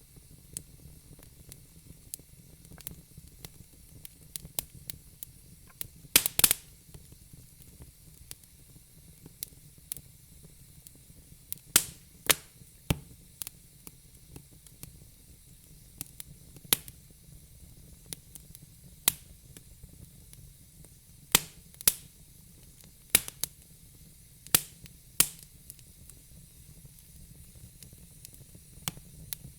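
Burning logs in a fire pit crackling, with scattered sharp pops over a faint hiss and a quick cluster of pops about six seconds in.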